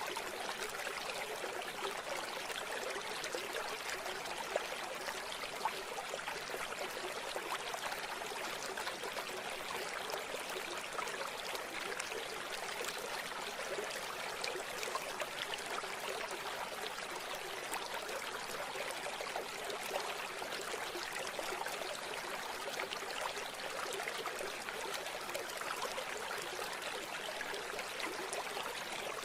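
River water flowing and babbling steadily over rocks, with a few brief louder splashes.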